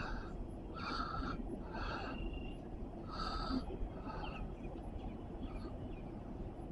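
A bird calling repeatedly in short, harsh calls about a second apart, over a steady low outdoor rumble.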